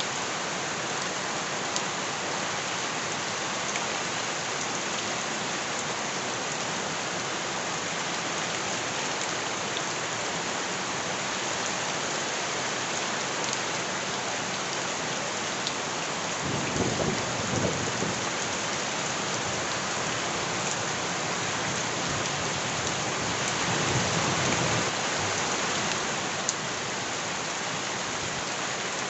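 Steady heavy rain with scattered drip ticks. Two low rumbles swell up, one a little past the middle and another several seconds later.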